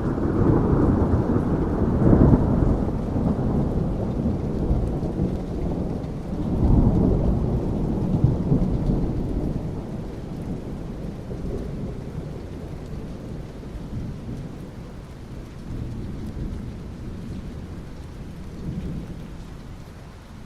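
Thunder rumbling over steady rain: a deep rumble swells in the first couple of seconds, rolls again about seven seconds in, then slowly dies away under the rain.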